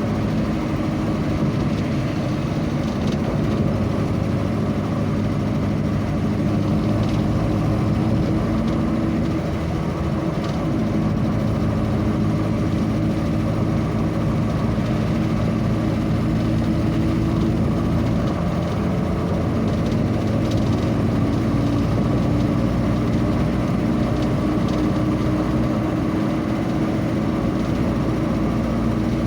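A vehicle's engine running steadily while driving, with a constant low hum of engine tones and road noise.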